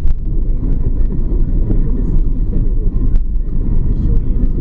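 BMW E46 wagon's cabin noise while driving in the rain: a steady low rumble of engine and tyres on a wet road, with faint scattered ticks.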